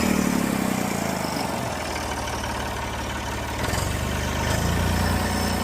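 Old Massey Ferguson tractor's diesel engine running just after starting from years of sitting: it settles to an idle, then picks up speed in two steps near the end.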